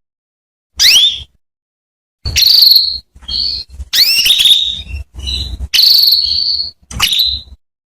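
Female domestic canary calling: a sharp upward-sweeping chirp, then from about two seconds in a rapid run of rising chirps and short high trilled notes with brief gaps between them. These are the female's calls used to prompt a male canary to sing.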